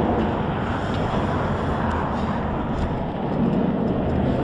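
Wind rushing over the microphone of a bicycle coasting downhill, a steady rumbling noise, with a faint hum coming in near the end.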